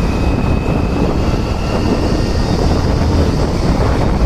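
Wind blasting over a motorcycle vlogging microphone at highway speed, a loud steady rush heaviest in the low end, with the bike's running and road noise underneath. A thin steady whine sounds through the first half.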